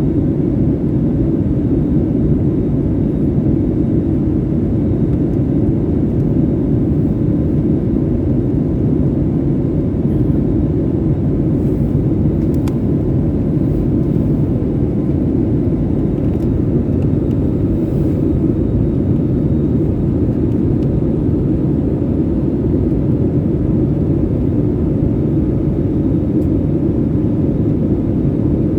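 Steady roar of an Airbus A320's engines and airflow heard inside the passenger cabin, with a faint steady engine hum under it.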